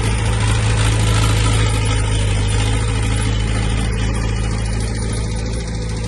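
Diesel engine of heavy earthmoving equipment running steadily, its low hum constant, with the higher mechanical noise easing a little in the last couple of seconds.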